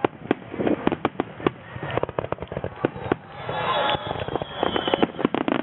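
Aerial fireworks going off in a dense series of sharp bangs and crackles, coming fastest in a rapid cluster during the last second and a half.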